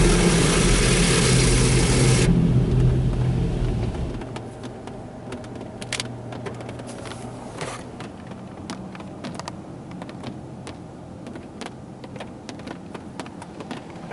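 High-pressure water jets of a touchless car wash spraying against the car, heard from inside the cabin. The spray cuts off sharply about two seconds in, and the low pump drone stops about two seconds later. After that only scattered drips and ticks of water on the car's body remain.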